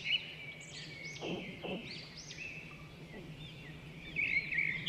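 Small birds chirping in the background: a steady run of short, quick, arching chirps over a faint low hum.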